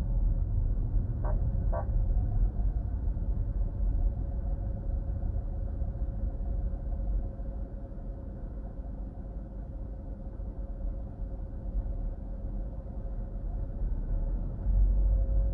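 Car driving, with a low rumble of engine and road noise and a steady whine above it; two short clicks about a second in.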